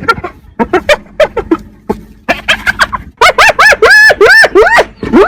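Spotted hyena giggling: rapid runs of short, high-pitched notes, each rising and falling, coming in bursts with brief pauses, the notes growing longer and louder in the second half.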